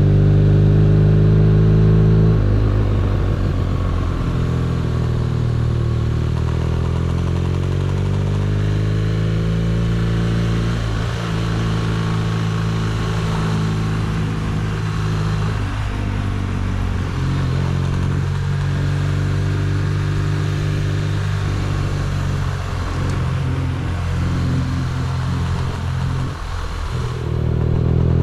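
BMW R nineT's boxer-twin engine running under way. Its note drops about two seconds in, then holds fairly steady with small rises and falls. Near the end it dips briefly and then picks up again.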